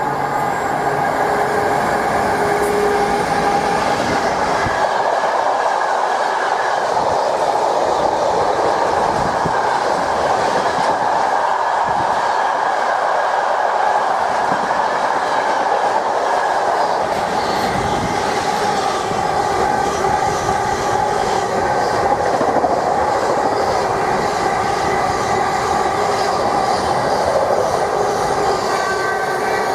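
Freight train of car-carrier wagons running through close by: a loud, steady rumble and clatter of wheels on the rails that does not let up.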